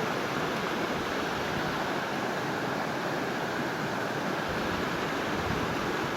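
Rushing water, a steady even roar.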